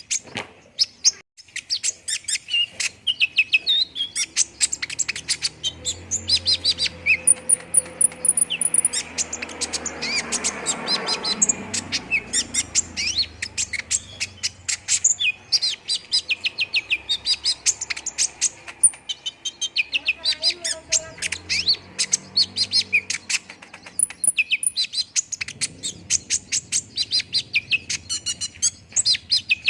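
Kolibri ninja sunbird (konin) singing without pause: a fast run of high-pitched chirps, twitters and short trills, used by bird-keepers as a lure song to set caged birds singing.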